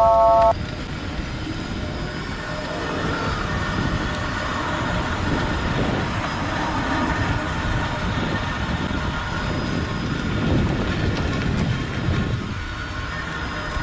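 A car's drive axle shaft making its abnormal noise on the move: a rattling, clacking sound over steady drivetrain and road noise. This is typical of a damaged outer constant-velocity joint.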